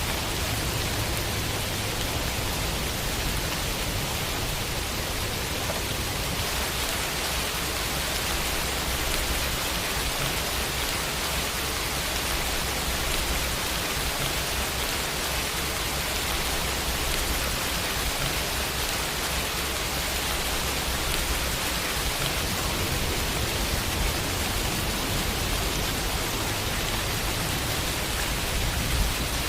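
Steady rainfall on a window, an even hiss of rain with no distinct individual drops.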